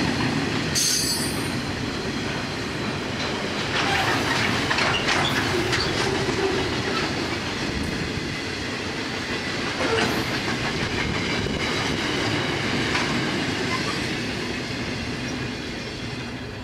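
Loaded steel-coil freight wagons rolling past on the track, wheels clicking over the rail joints. A brief high wheel squeal comes about a second in, with a few clanks along the way. The sound fades near the end as the last wagon goes by.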